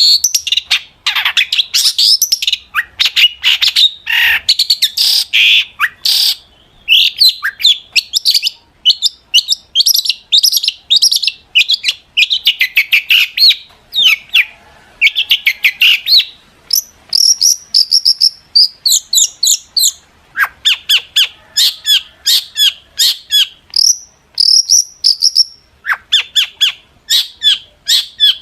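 Long-tailed shrike (cendet) singing in full voice: a rapid, nearly unbroken run of short, high chattering and whistled notes with quick up-and-down glides.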